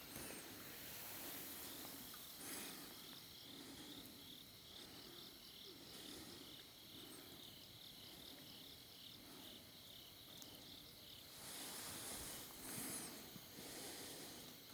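Faint insects chirping in an even rhythm over a steady high insect whine, in a mountain forest. A bird gives two short high calls.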